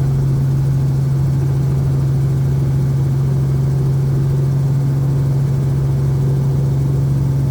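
Helicopter engine and rotors running with a steady, unbroken drone dominated by a strong low hum.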